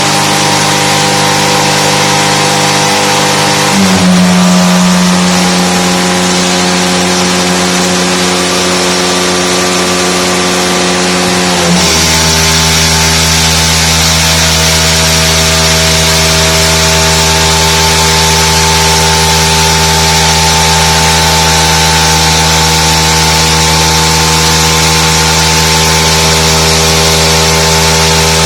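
79 cc two-stroke petrol lab engine running steadily under load. Its pitch steps down about four seconds in and again at about twelve seconds, as the load is raised in steps and the engine speed drops.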